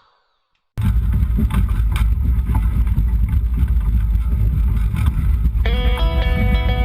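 Loud wind buffeting and rushing on the microphone of a camera aboard a Hobie Trifoiler 41 hydrofoil sailboat under way, with scattered clicks and knocks. About five seconds in, a guitar song starts over it.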